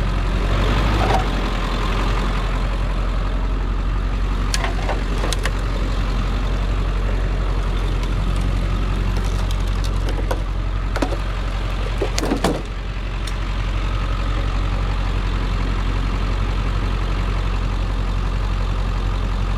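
A vehicle engine idling steadily, with a few sharp metallic knocks and clanks around five and twelve seconds in.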